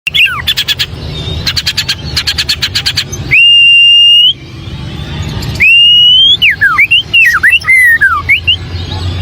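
White-rumped shama singing: quick trains of clicking notes, then two long clear whistles that lift slightly at their ends, then a fast run of varied whistled glides. A low steady hum runs underneath.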